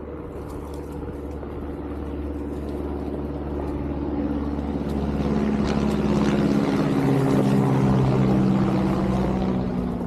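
Onewheel GT electric hub motor humming under load, its pitch shifting with speed over the rumble of the tyre on the trail. It grows louder through the middle and eases slightly near the end.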